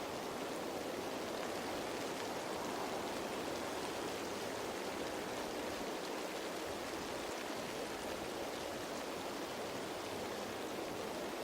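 Steady rain falling on leaves, an even patter with no breaks or single drops standing out.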